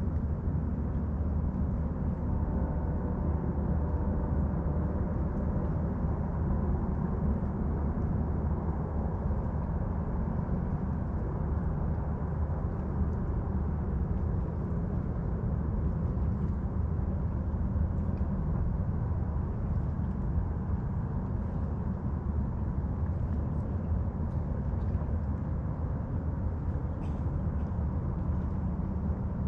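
Steady low rumble of a distant motorboat engine, with faint short bird chirps now and then.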